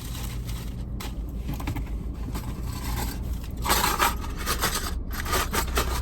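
Rustling and scraping of things being handled, over a steady low hum. The handling is loudest about four seconds in, then turns into a run of short clicks and rustles.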